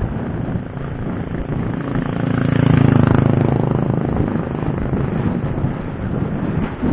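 Wind buffeting the microphone on a moving bike, with a motor vehicle's engine swelling up and fading away as it passes, loudest about three seconds in.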